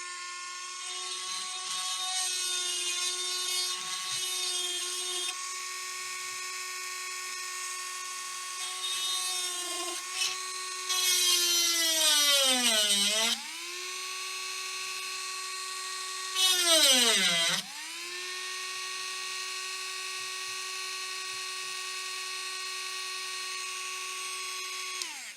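A small high-speed rotary tool or micro drill spinning with a steady whine. Twice it gets louder and its pitch sags, then recovers, as the bit is pressed into the laptop circuit board to grind out a short between its inner layers.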